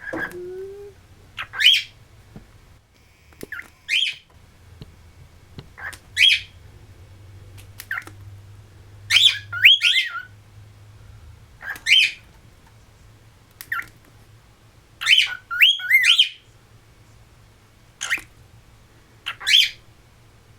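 Cockatiel giving short, sharp, rising call notes about every two seconds, some in quick pairs.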